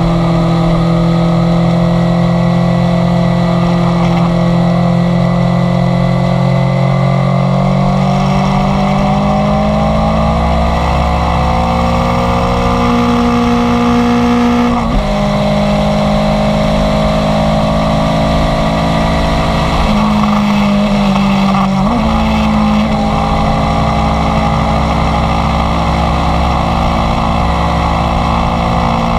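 Inline-four sport motorcycle engine running under way, its pitch climbing slowly as it accelerates, with two brief breaks in the sound where it shifts up a gear.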